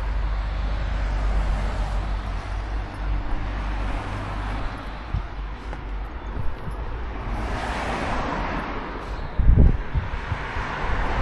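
Road traffic going by, with a vehicle swelling past about eight seconds in, over a steady wind rumble on the microphone.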